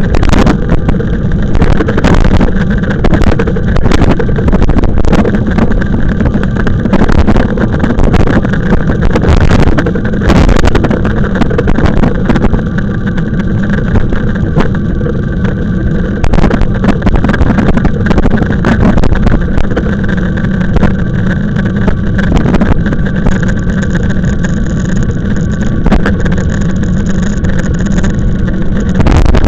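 Wind buffeting the microphone and road rumble of an e-bike ride, a loud steady rumble broken by frequent short knocks and rattles as the bike goes over bumps.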